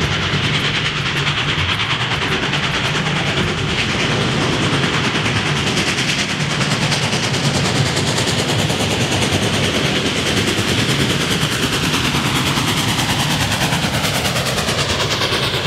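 Railroad train running with a steady, fast clattering rattle.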